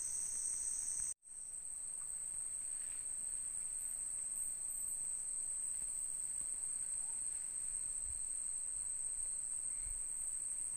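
Evening insect chorus in tropical forest: a steady, high-pitched trill with no break in rhythm. It cuts out for a moment about a second in.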